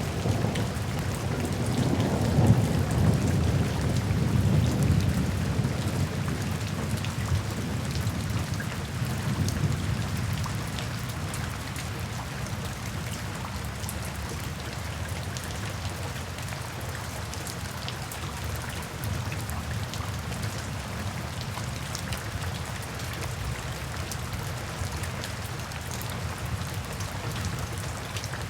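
Steady rain with fine pattering drops, and a low roll of thunder that swells a few seconds in and dies away by about ten seconds in.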